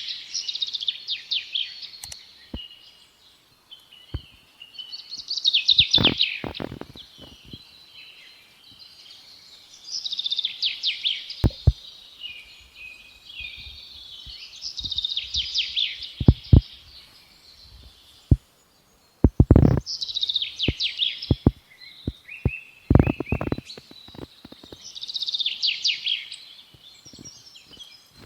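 A songbird singing the same quick, high trilling phrase over and over, about every four to five seconds, with scattered sharp clicks and knocks between phrases.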